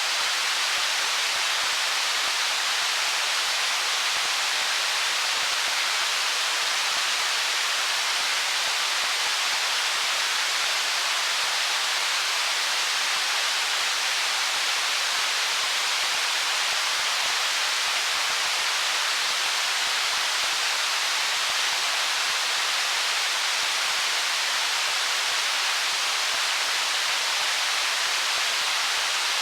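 Stream water running over stones: a steady, even hiss with almost no low rumble, unchanging throughout.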